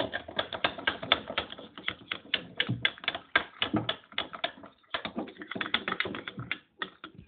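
Liquid soap and salt being stirred in a container, the stirring utensil clicking rapidly and irregularly against its sides, with brief pauses about five seconds in and near the end.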